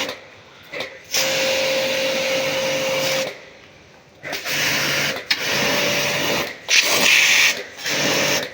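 A small motorised cleaning tool running in on-off bursts of one to two seconds: a loud hiss over a steady motor hum, with short quieter gaps between bursts.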